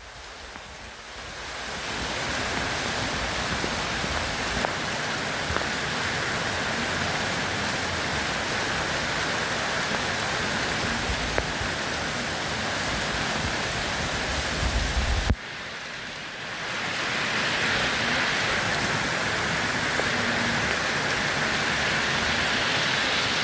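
Steady rain, an even dense hiss. About fifteen seconds in a low rumble swells, then the sound drops suddenly and builds back up over a couple of seconds, like a join in a looped rain recording.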